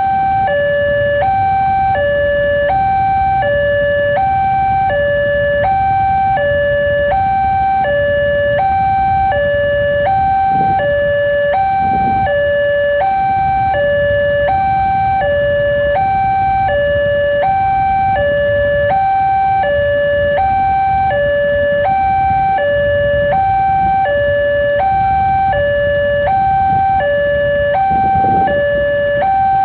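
Railway level-crossing warning alarm: an electronic two-tone signal alternating steadily between a higher and a lower note about every 0.7 seconds, warning that a train is about to pass. A low engine rumble from road traffic runs underneath.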